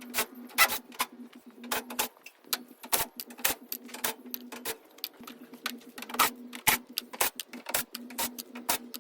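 Irregular sharp metallic clicks and clinks of scrap HVAC parts being worked apart by hand, a few to several a second. Under them runs a steady low hum that drops out briefly twice.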